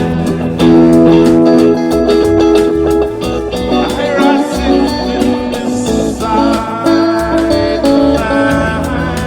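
Improvised guitar music with a bass line and a steady rhythm of sharp beats, from a band jamming.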